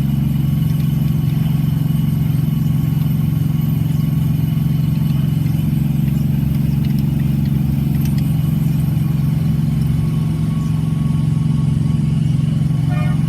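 Car engine idling steadily, a constant low hum that does not change in pitch or level.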